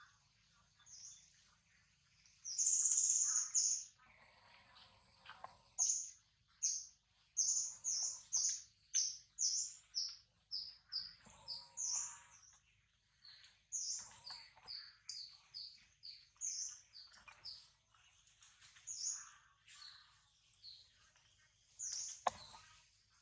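Birds chirping: a long run of short, high-pitched calls, about two a second at their busiest, many of them dropping slightly in pitch.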